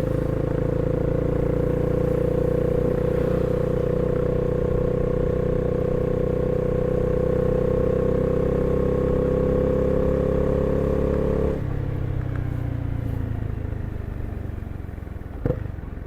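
Honda CB300R single-cylinder engine pulling steadily under throttle while riding, its pitch creeping up slightly. About two-thirds of the way through the throttle is shut: the engine note drops suddenly and the revs fall away as the bike slows. There is a sharp click near the end.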